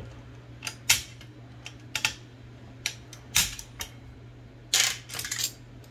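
Irregular sharp clicks and small knocks from the metal mechanism of an Olivetti Linea 98 typewriter being handled during repair, with a quick cluster of clicks near the end.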